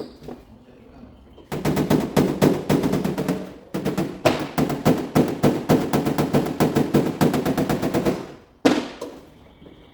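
Rapid tapping on a car hood's sheet metal, about eight to ten taps a second. It comes in two long runs with a brief break about three and a half seconds in, stops about eight seconds in, and is followed by a single harder knock. This is the tap-down stage of paintless hail-dent repair, knocking down high spots around the dents.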